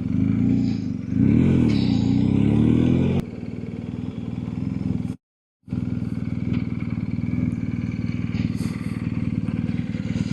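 Motorcycle engine running, with a louder stretch of changing engine pitch about a second in, then a steady idle after a short break.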